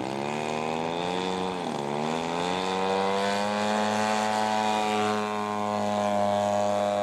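Radio-controlled scale model airplane's engine and propeller opening up for the takeoff run. The pitch sags briefly about two seconds in, then climbs and holds steady at high power.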